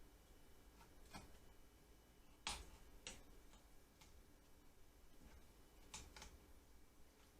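Near silence with a few faint clicks and taps, the loudest about two and a half seconds in, from hands working a raw whole chicken and kitchen utensils.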